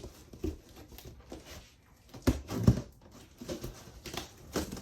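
A cardboard shipping box being handled and opened on a bench: scattered taps, scrapes and rustles, with two louder knocks a little past the middle.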